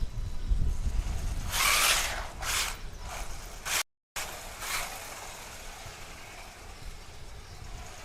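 WLtoys 144001 RC car driving at full speed, its drivetrain running quietly with both differentials packed with thick grease, even though the front diff is defective. Wind rumbles on the microphone, and the sound cuts out briefly about four seconds in.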